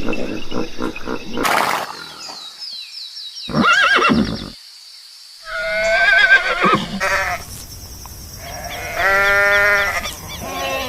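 Several separate animal calls, one after another, with abrupt changes between them.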